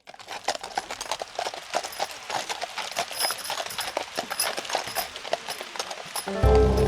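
Horse hooves clip-clopping in an irregular run of sharp knocks, several a second. Music comes in near the end.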